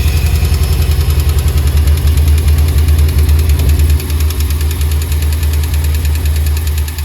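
GMC Sierra engine running with a steady, rapid knock from inside the engine. The owner says the engine has been bending pushrods and has oil mixing with water, and is taking it to a shop to find the cause.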